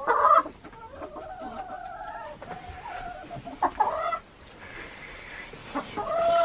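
Hens clucking in several calls: a loud one at the start, a longer wavering call from about a second in, another short one around three and a half seconds, and a loud one near the end.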